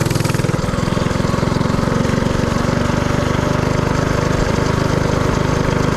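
Mini-bike's Predator 224cc single-cylinder four-stroke engine running steadily under way, with a rapid, even firing beat.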